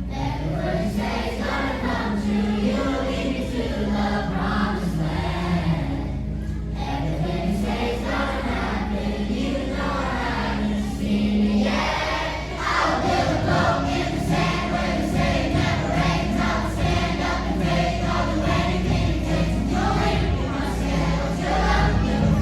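Youth choir singing together over an instrumental accompaniment.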